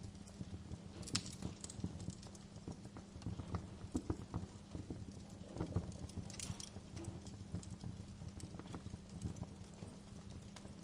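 Wood fire in a fireplace crackling: irregular sharp pops and snaps of varying strength over a low steady rumble.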